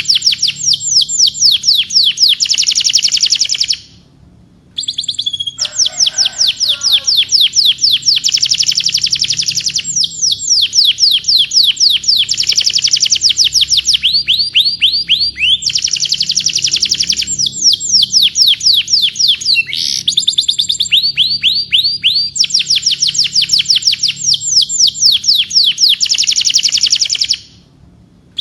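Domestic canary singing: long, rapid trills of quickly repeated, downward-sweeping high notes in changing tours. The song breaks off briefly about four seconds in and again near the end.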